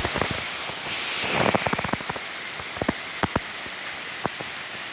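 Heavy thunderstorm rain pouring down with gusting wind, a gust swelling about a second and a half in. Sharp knocks and clatters sound irregularly throughout, a quick cluster about halfway through and single ones after.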